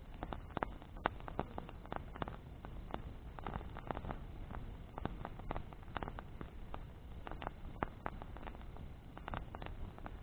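Bonfire of branches burning: wood crackling and popping in irregular sharp snaps over a low steady rumble of the flames.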